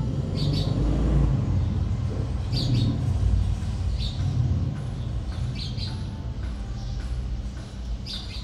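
Short, high bird chirps every second or two over a steady low rumble.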